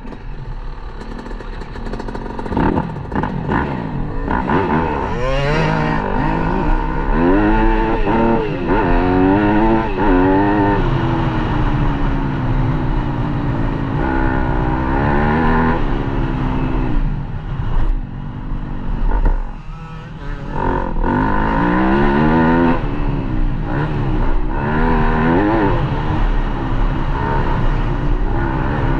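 Dirt bike engine revving hard, the throttle repeatedly opened and closed so the pitch keeps rising and falling, with a short lull about twenty seconds in.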